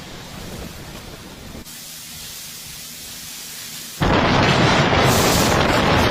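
Snowstorm wind: a faint steady hiss, then about four seconds in a sudden loud rushing noise of wind buffeting the microphone.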